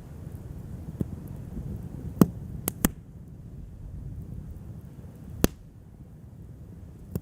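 Wood fire crackling over a low steady rumble, with sharp pops: one about a second in, three close together between two and three seconds, and a loud one past the five-second mark.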